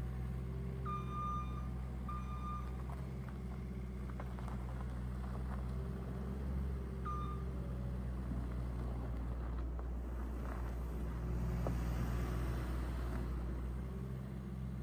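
Case SR175 skid steer's 60-horsepower diesel engine running steadily, with three short high beeps: two close together about a second in, and one more about seven seconds in.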